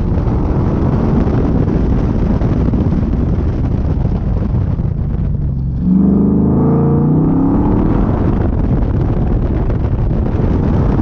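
Car engine running hard on an autocross course, with a dense rough rumble. About six seconds in it gets louder and its pitch climbs and wavers as the car accelerates.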